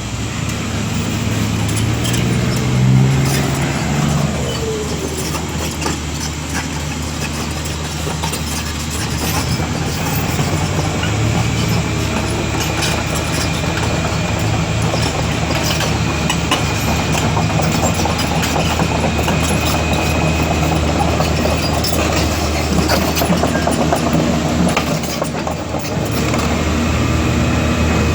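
Heavy diesel engine running steadily, revving up and settling back down a few seconds in, with a faint steady high whine through the middle.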